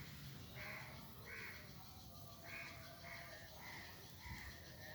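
A bird calling faintly in a series of short calls, about six of them spaced roughly half a second to a second apart.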